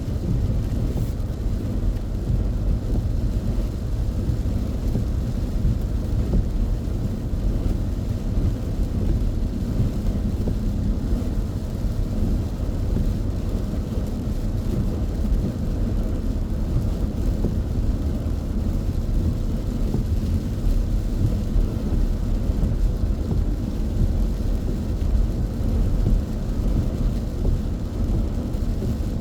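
Steady low road rumble inside a car's cabin at highway speed: tyres on a wet expressway and the engine running.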